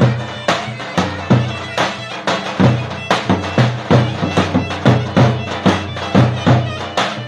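Traditional Turkish wedding folk music: a loud, reedy wind instrument plays a sustained melody over heavy, regular drum beats, about two or three strikes a second.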